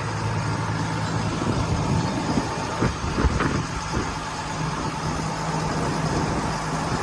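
Steady engine drone with a low hum and a noisy wash over it, with a few brief knocks about three seconds in.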